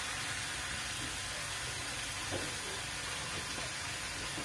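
Fish offal and ground spice paste frying in oil in a wok, sizzling steadily.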